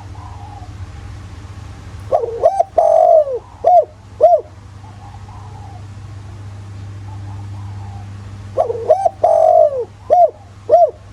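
Spotted dove singing its cooing song twice, about six seconds apart. Each phrase is a short note, a long drawn-out falling coo, then two short coos. Fainter cooing sounds in the gaps over a steady low hum.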